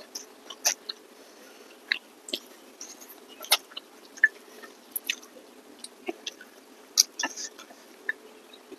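Close-up mouth sounds of people chewing food by hand: irregular short, sharp smacks and clicks, a few every second.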